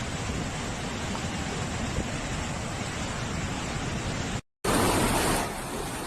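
Steady rushing noise of floodwater. It breaks off for a moment about four and a half seconds in, then comes back louder for under a second before settling back to the same level.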